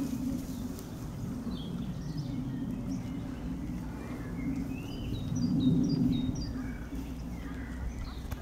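Small songbirds chirping in short high notes, with a quick run of repeated chirps about five to six seconds in, over a steady low rumble of background noise that swells briefly at the same point.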